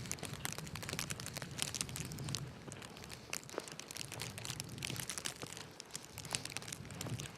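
Footsteps crunching in snow: irregular crisp crackles over a low rumble that swells and fades.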